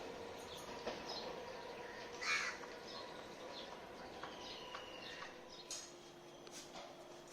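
A crow caws once, loudly, about two seconds in, with fainter short bird calls and clicks around it over a faint steady hum.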